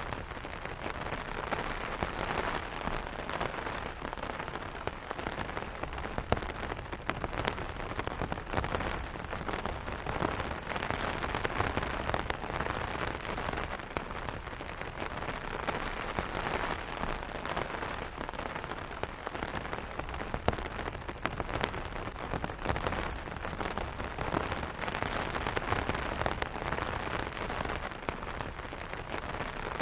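Steady rain pattering on an umbrella overhead, a dense hiss of rain with many separate drops ticking sharply on the canopy.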